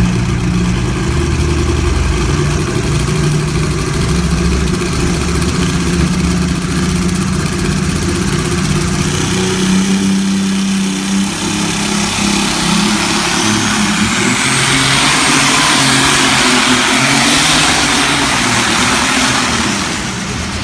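Pulling tractor's engine running hard at high revs during a pull, loud and continuous, with a thin high whine that rises about thirteen seconds in and then holds.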